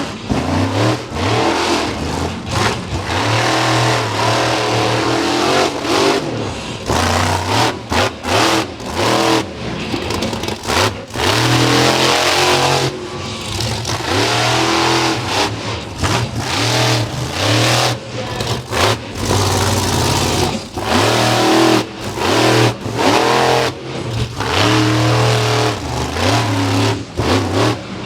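A monster truck's big engine revs hard over and over. Its pitch climbs and falls again and again, and the throttle is chopped many times.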